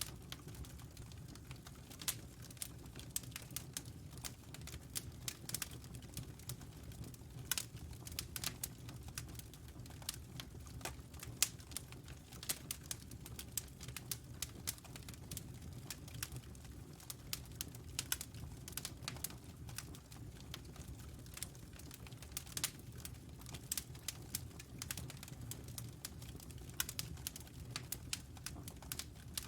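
Wood fire crackling in a fireplace: irregular sharp pops and snaps, several a second with a few louder ones, over a steady low rumble.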